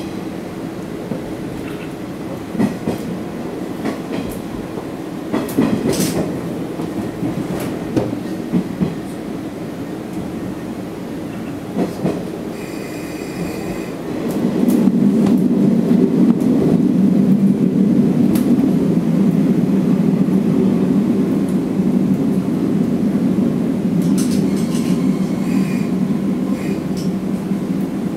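Inside a Sanriku Railway diesel railcar under way: a steady running rumble with the wheels clacking over rail joints now and then. About halfway through the rumble grows louder and stays there as the train powers up. There are brief high wheel squeals around the middle and again near the end.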